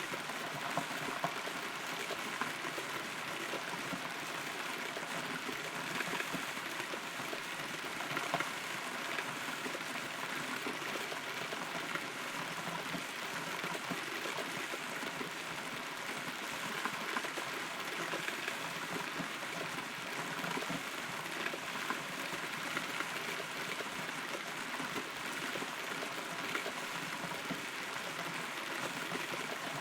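Steady rain heard from inside a hollow, rotten tree trunk: an even patter with occasional louder drops striking close by.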